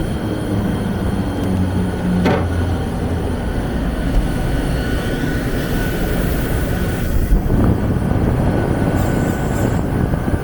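Alloy-wheel cutting lathe running, a steady mechanical drone with a faint high whine, with a brief click about two seconds in and another past the middle.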